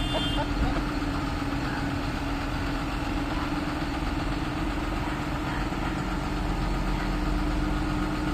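Tractor engine idling steadily, an even, unchanging engine tone.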